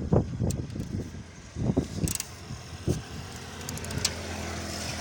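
A motor vehicle engine running steadily through the second half, after a few irregular low knocks in the first two seconds.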